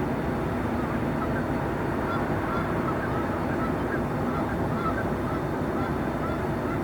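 Train station ambience: a steady rumbling hubbub, with a run of short high calls or squeaks repeating a few times a second.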